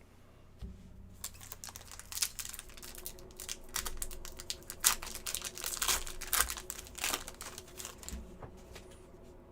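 Foil wrapper of a hockey card pack crinkling and tearing as it is opened and handled: a dense run of sharp crackles that builds from about a second in, is thickest in the middle and thins out near the end.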